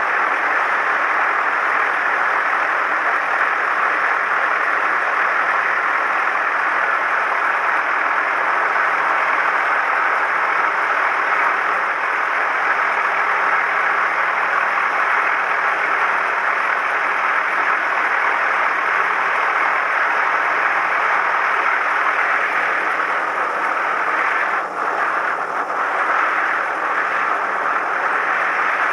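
Cabin noise of a Cessna 172M: its four-cylinder Lycoming engine and propeller running steadily, a constant dense drone heard from inside the cabin.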